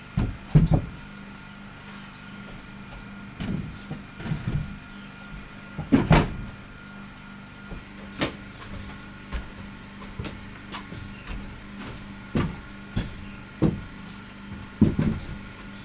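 Irregular wooden knocks and thuds, about ten of them spaced one to two seconds apart, as pieces of timber are handled and set in place.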